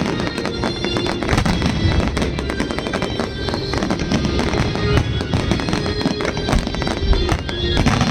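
Fireworks display going off in a rapid, dense barrage of bangs and crackles, with music playing along.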